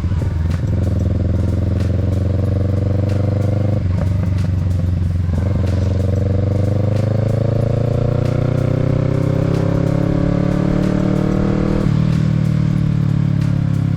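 Kawasaki Z650's parallel-twin engine under way, its pitch climbing slowly as the bike accelerates, with gear changes about four seconds in and again near the end, each a short break before the engine note picks up and climbs again.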